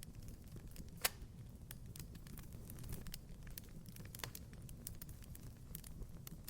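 Wood fire in a fireplace crackling, with a steady low rumble and many small sharp pops, and a louder pop about a second in and another about four seconds in.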